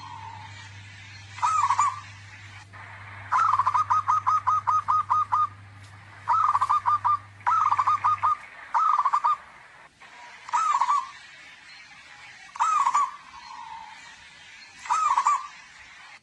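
Zebra dove (perkutut) calling loudly: short phrases of quick, bouncing coo notes repeated every second or two, with one longer rolling series of about ten notes a few seconds in.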